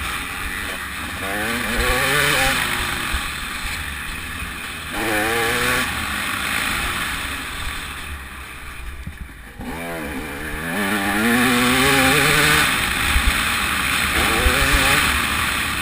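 TM 300 two-stroke motocross bike's engine revving hard as it accelerates, its pitch climbing and falling back several times, with wind rushing over the microphone. About 8 seconds in the engine drops off briefly, then climbs again from about 10 seconds.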